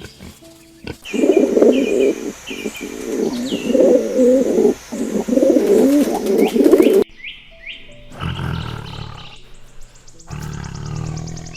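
Animal calls: a loud, wavering call lasting about six seconds over repeated short bird chirps, cut off suddenly, then quieter, lower calls near the end.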